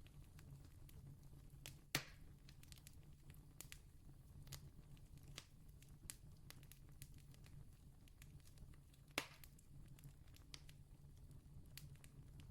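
Campfire crackling faintly: scattered small snaps and ticks, with two louder pops, one about two seconds in and one about nine seconds in, over a low steady rumble.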